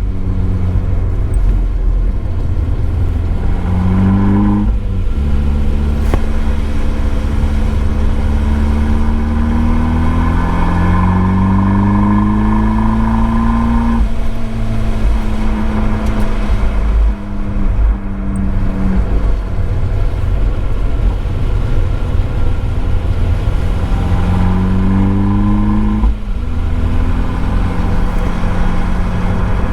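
Abarth 595 Esseesse's turbocharged 1.4-litre four-cylinder through its Akrapovič exhaust, pulling hard up through the revs and upshifting. The pitch climbs and drops sharply at a gear change about four and a half seconds in, climbs for a long pull before dropping again about fourteen seconds in, and climbs to another shift near the end. A steady hiss of noise runs underneath, heard from a microphone in the boot.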